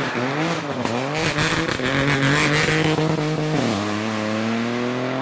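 Rally car engine pulling hard, its pitch climbing and falling quickly as it changes gear, with a sharp drop about three and a half seconds in before it climbs steadily again. A rush of hissing, crackling noise sits over the engine early in the middle of the run.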